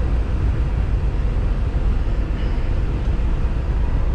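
Freightliner Cascadia semi-truck heard from inside the cab while it creeps through a parking lot: the engine and drivetrain make a steady low rumble.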